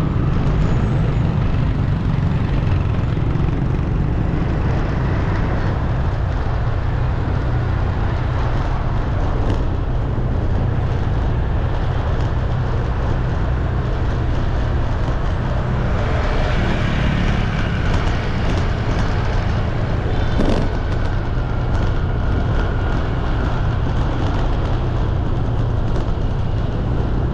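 Steady city road traffic: a continuous low rumble of engines and tyres, with vehicles passing, and a brief sharp knock about two-thirds of the way through.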